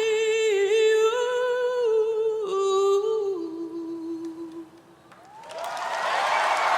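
A singer's unaccompanied wordless closing line, held notes that step down and fade out. About a second later a studio audience breaks into applause and cheering.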